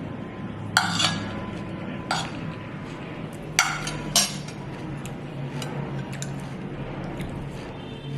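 Cutlery and dishes clinking at a meal: a handful of sharp clinks and knocks, the loudest about a second in and again around three and a half to four seconds in, with fainter ones after.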